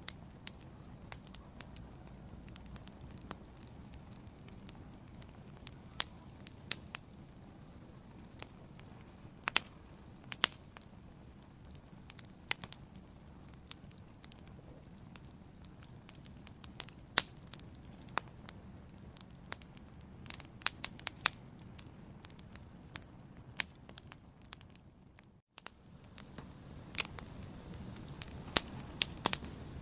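Wood fire crackling in a fireplace: irregular sharp pops and snaps, a few much louder than the rest, over the steady low rumble of the flames. The sound cuts out completely for a split moment near the end, then resumes.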